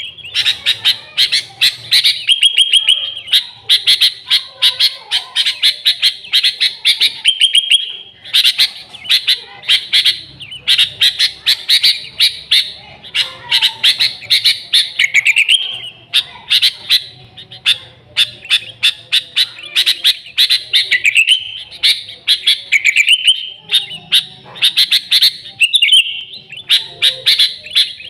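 Sooty-headed bulbul (kutilang) singing vigorously: fast chattering phrases of rapid chirps, a few seconds each, broken by brief pauses.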